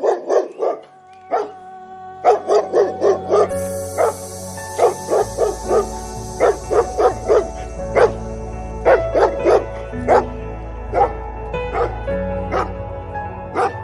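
A dog barking over and over in short, quick barks, several a second, over background music.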